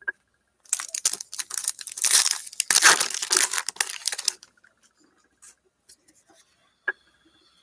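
A foil trading-card pack wrapper being torn open and crinkled for about four seconds, followed by a few faint ticks as the cards are handled.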